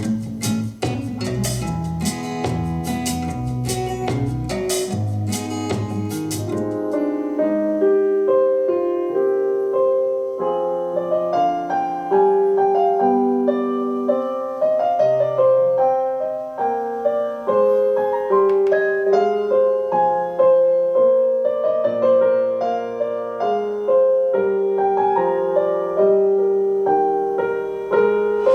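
Music played as a sound test on a BenQ treVolo S portable electrostatic Bluetooth speaker. It opens with a drum-and-bass-backed track, then about seven seconds in changes to a solo piano melody.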